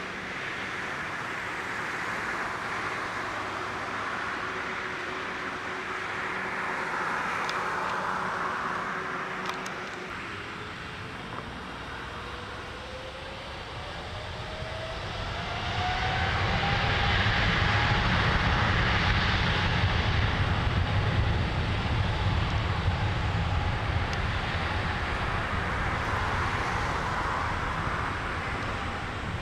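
Jet engines of a Boeing 777-300ER (GE90-115B turbofans) spooling up for takeoff: a whine rises in pitch about a third of the way in, then the jet rumble swells, loudest a little past the middle, and eases slightly near the end.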